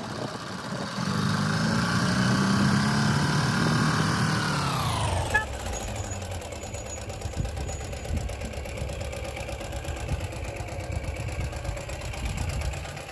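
Ural sidecar motorcycle's boxer-twin engine running under way. Its pitch falls steeply about five seconds in as it slows, then it runs on steadily at a lower pitch.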